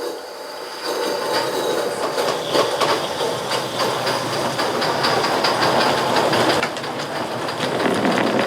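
Coal-fired live steam model locomotive working under steam, a run of short exhaust chuffs with the clatter of wheels on rail. The owner credits its heavy exhaust to reduced valve cut-off after his valve machining.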